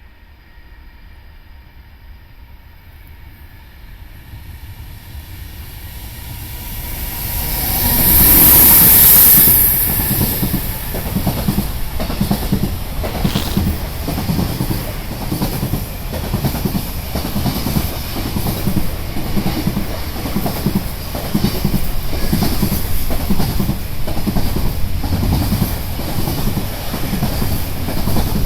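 EH500 electric freight locomotive approaching and passing close by, loudest about eight seconds in, then a long freight train of container wagons rolling past, the wheels clattering steadily over the rail joints.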